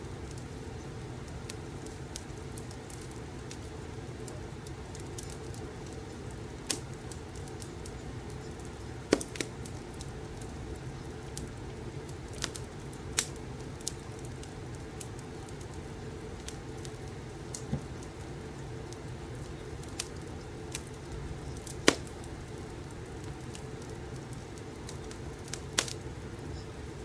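Fireplace crackling: a steady low rushing bed with scattered sharp pops and snaps at uneven intervals, one louder pop about four-fifths of the way through.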